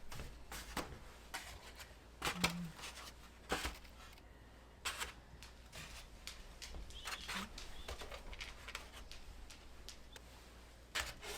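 Eggs being gathered from chicken nest boxes: scattered knocks and clicks with soft rustling between them, and a hen clucking softly once or twice.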